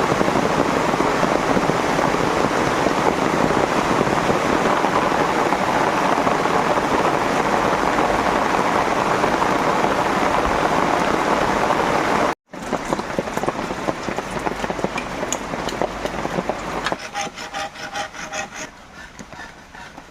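Heavy rain falling steadily, cutting off abruptly about twelve seconds in. After that comes quieter noise with scattered clicks, and near the end a rapid, evenly repeating pulsing sound.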